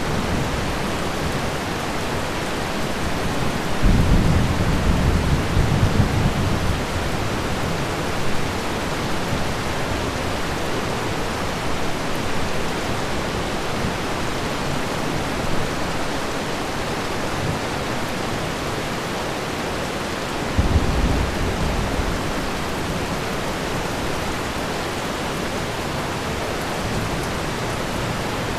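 Steady heavy rain hiss of a thunderstorm, with thunder rumbling twice: a long low rumble about four seconds in and a shorter one about twenty seconds in.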